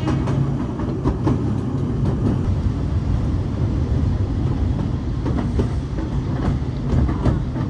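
A narrow-gauge sightseeing train running along the track, heard from the carriage: a steady rumble of wheels on rail with scattered irregular clacks and knocks, a few louder near the end.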